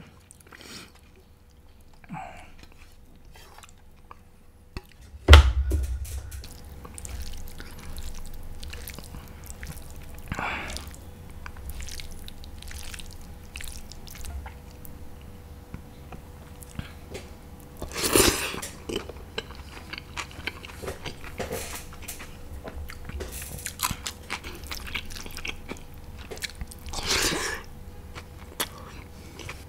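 Close-up mukbang eating sounds: chicken curry being bitten and chewed, with scattered clicks and wet mouth noises. There is a sudden loud thump about five seconds in, and a faint steady hum underneath.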